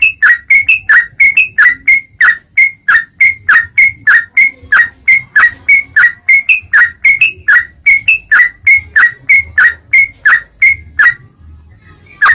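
Yellow-vented bulbul (trucuk) calling, a fast, even run of short whistled notes, about three a second, each dropping sharply in pitch. The notes break off for about a second near the end.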